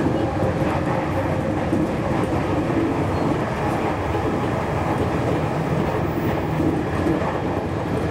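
JR Kyushu 813 series electric train running at speed, heard from inside its cab: a steady rumble of wheels on rail and running gear, holding an even level throughout.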